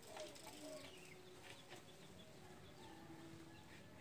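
Near silence in a pause between spotted dove coos, with only faint, thin bird calls in the background.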